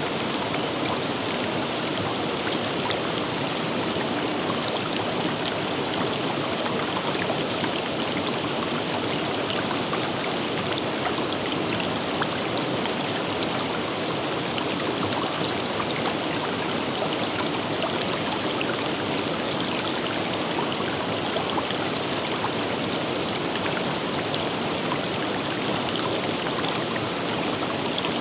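Forest river running steadily: an even rush of flowing water with small splashes scattered through it.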